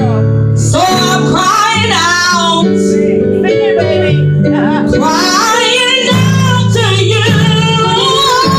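Woman singing gospel in long, ornamented phrases with strong vibrato over sustained instrumental chords.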